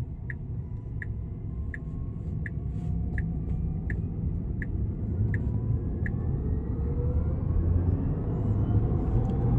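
Cabin sound of a Tesla Cybertruck pulling away: the turn-signal ticks evenly, about one and a half times a second, and stops about six seconds in. The electric drive's whine rises steadily in pitch as the truck accelerates hard, over a low road rumble that grows louder.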